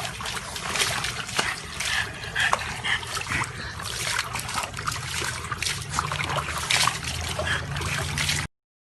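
Water splashing and dribbling, with many small irregular clicks, cutting off suddenly near the end.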